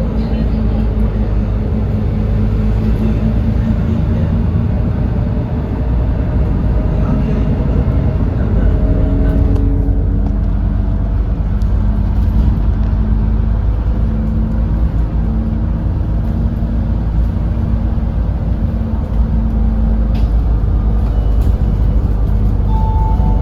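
Doosan GX12P natural-gas engine of an Edison Motors Smart 110G city bus running under way: a steady low drone with a hum whose pitch shifts about nine seconds in.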